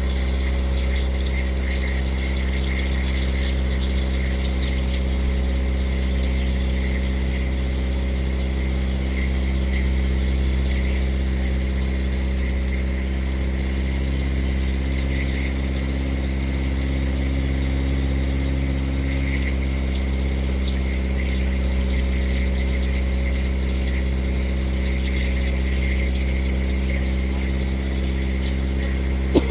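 A motorboat's engine running steadily at an even speed, a constant low drone.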